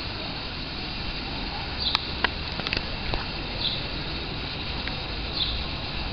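A bird's short high chirp repeats about every second and a half to two, over a steady background hum. A cluster of sharp clicks comes about two to three seconds in.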